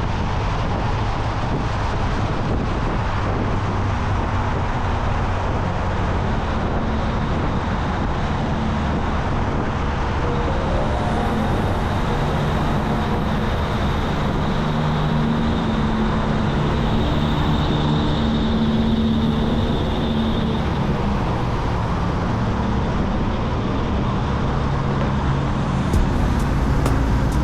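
Motorcycle engine running while riding, under steady wind and road noise on the microphone. The engine note shifts in pitch from about halfway through, and a short run of evenly spaced ticks comes near the end.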